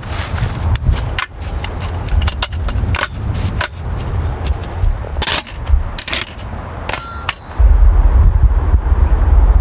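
Raindrops tapping on tent fabric in irregular sharp clicks, over a low rumble of wind on the microphone that grows much louder about three-quarters of the way through.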